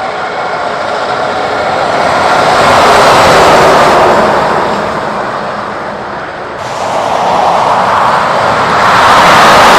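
Heavy truck passing on the road, its engine and tyre roar swelling to a peak and fading, then a second swell rising near the end.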